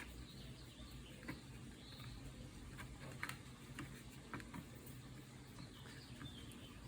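Faint, scattered small clicks and ticks of hands and a paintbrush working soft wet clay, over a low steady hum.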